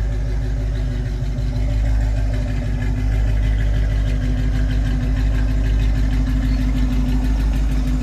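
1994 Ford Mustang GT's 5.0 V8 running steadily at low revs, its exhaust rumbling through long-tube headers, an X-pipe and Black Widow Widowmaker 10 mufflers.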